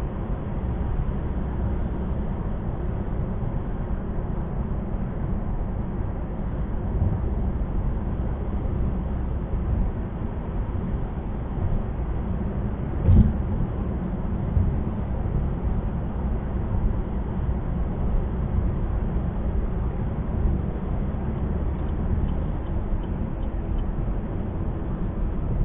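Steady low road and engine rumble heard from inside a moving car on a highway, with a single thump about halfway through.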